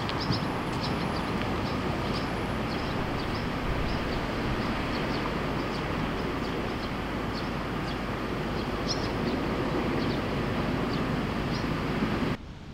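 Enoden electric train running on the rails, a steady rumble with short high squeaks throughout, cutting off suddenly near the end.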